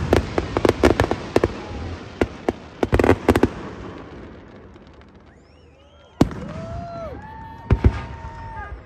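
Aerial fireworks going off: a rapid string of crackling reports over the first three seconds or so that dies away, then a single sharp bang about six seconds in and another strong bang near the end.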